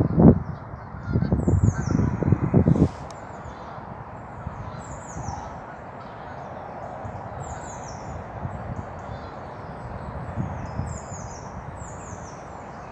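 Gusts of wind on the microphone rumble for the first three seconds or so. After that a steady outdoor hiss carries a small bird repeating a short, high, falling call about every second and a half.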